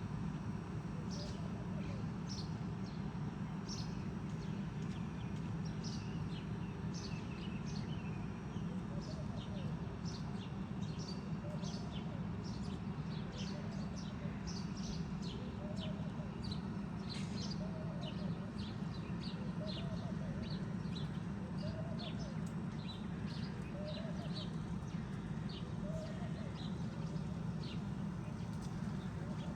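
Birds chirping in quick, scattered short notes over a steady low rumble of city background noise. Through the middle, a lower short call repeats about every second and a half.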